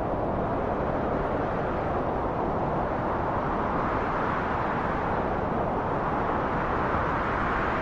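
Steady wind blowing, a dense rushing noise that swells gently and eases again without gusting hard.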